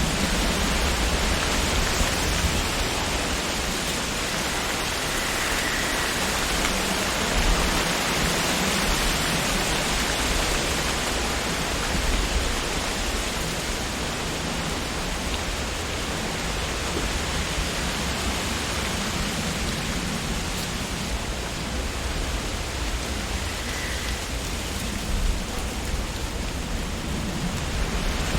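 Wind blowing through tree leaves: a steady rustling hiss with a low rumble underneath, swelling and easing only slightly.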